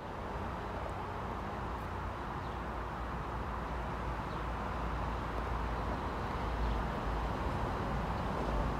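Steady low rumble and hiss of a train still far off, approaching along the electrified main line, mixed with the outdoor noise of the station. It grows slightly louder.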